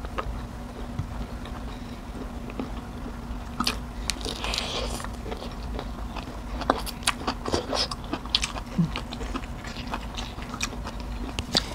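Close-up eating sounds: biting and chewing crisp raw green vegetables, a run of short crunches and clicks that comes thicker in the second half.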